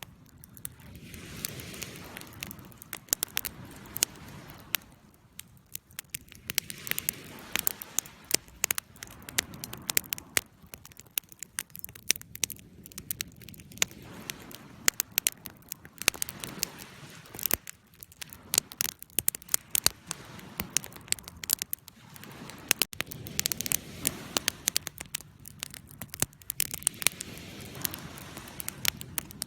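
Wood fire burning in a fireplace, crackling with many sharp irregular pops and snaps over a soft rushing that swells and fades every few seconds.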